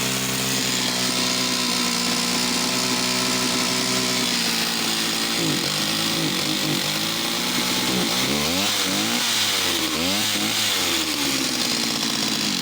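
Stihl 041AV two-stroke chainsaw engine running, steady at first, then from about halfway its revs swing up and down again and again: the engine hunting as it goes lean and then richens up.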